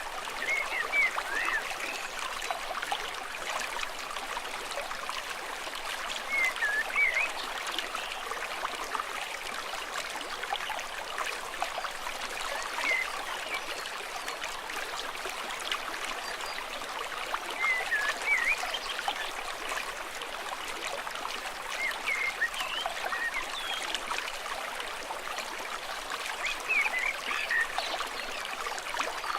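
Stream water running and trickling steadily. Every five or six seconds there is a brief cluster of short, high gliding notes.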